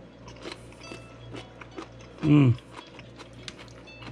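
Mouth chewing crunchy marinated jellyfish poke: a run of small crisp crackles and clicks, with a short hummed 'mm' falling in pitch about halfway through.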